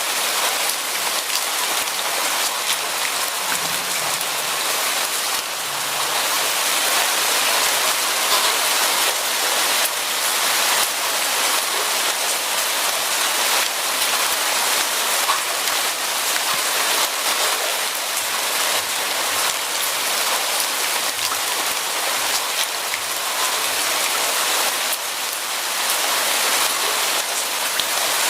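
Steady rain falling, a dense even hiss of many small drops hitting a surface.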